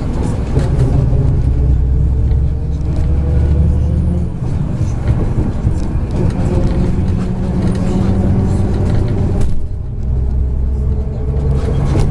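MAZ 103 city bus engine and drivetrain heard from inside the passenger cabin, running steadily under way. The engine note changes about four seconds in, and the sound dips briefly near the ten-second mark before the low hum returns.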